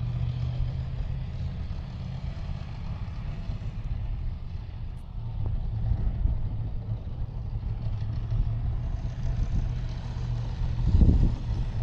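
Motorcycle engine running steadily as it is ridden, with a brief louder swell about eleven seconds in.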